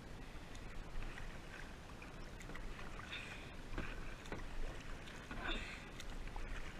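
Kayak paddle strokes: the blades dip and splash into the water every second or two, over a steady low rumble.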